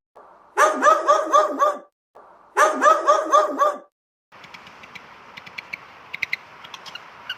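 A dog yapping in two quick runs of about six barks each, a second apart. These are followed by a fainter hiss with scattered clicks.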